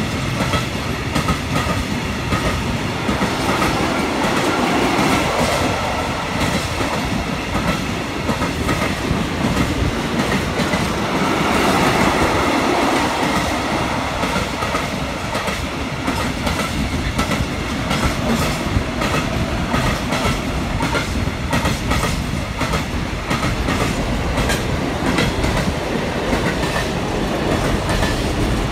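Container freight train rolling past, its wagon wheels clacking over the rail joints in a steady, loud run of clicks.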